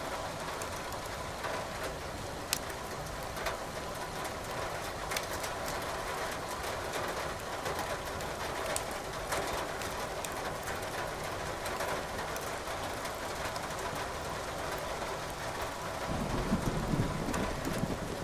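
Steady rain hiss with sharp, scattered crackles and pops of burning firewood in a fireplace. A low rumble of thunder builds near the end.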